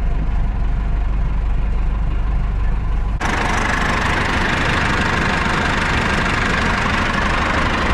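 Tractor's diesel engine idling steadily in neutral. About three seconds in, the sound changes abruptly and becomes fuller and harsher.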